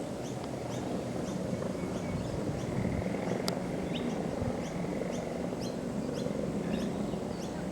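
Small birds chirping, short high chirps about twice a second, over a steady low engine hum.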